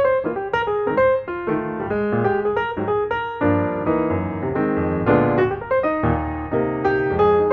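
Background piano music: a melody of quick notes over low bass notes.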